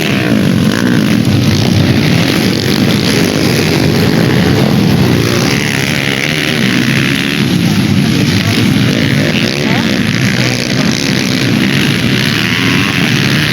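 Dirt-bike engines running and revving, loud and continuous, with pitch rising and falling as the throttle opens and closes.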